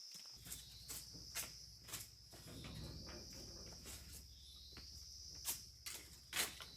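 Crickets chirring steadily at night, with a few sharp knocks, the loudest near the end, and a low hum that comes in just after the start.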